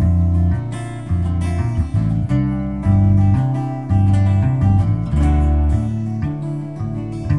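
Acoustic guitar strumming chords over a bass line, an instrumental passage between sung lines of a song.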